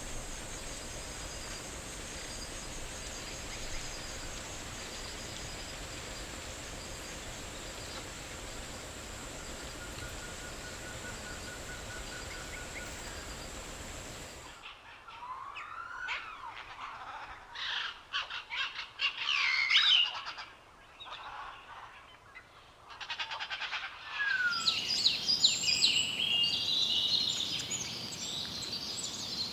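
Wild birds calling, first faint over a steady insect drone with a thin high whine, then, about halfway, clear calls with sweeping rising and falling notes, and near the end a dense run of high chirps.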